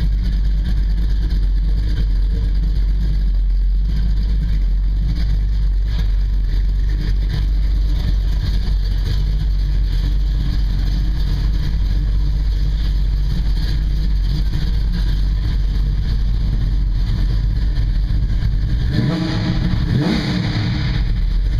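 1968 Dodge Coronet R/T's V8 engine running steadily, with a brief rise and fall in pitch near the end.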